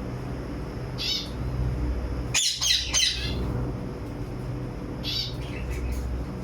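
Pet parrots in an aviary squawking in short harsh calls: one about a second in, a louder run of three or four near the middle, and another near the end, over a steady low hum.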